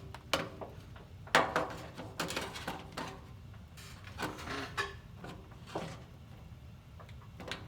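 Irregular metal clanks and scrapes as tools and the circulator pump's metal parts are handled while it is opened up, a handful of separate knocks, some with a brief ring, over a low steady hum.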